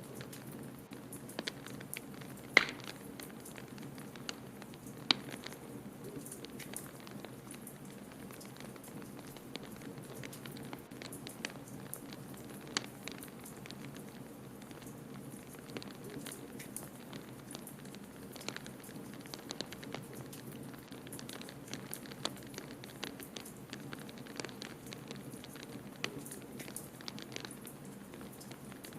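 Wood fire crackling in a fireplace: scattered sharp pops and ticks, the two loudest about two and a half and five seconds in, over a steady low rushing background.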